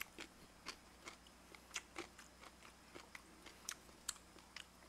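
Faint, irregular wet clicks and smacks of a person chewing a mouthful of sushi close to the microphone.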